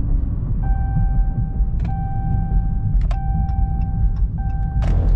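Car cabin rumble of a car driving along the highway. A steady high electronic tone starts about a second in and is broken by a few sharp clicks.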